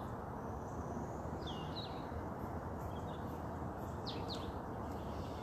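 Steady roar of distant highway traffic, with a few short, sweeping bird calls over it.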